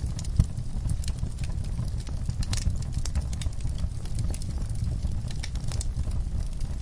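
Wood fire crackling in a fireplace: frequent irregular sharp pops and snaps over a low, steady rumble of flames.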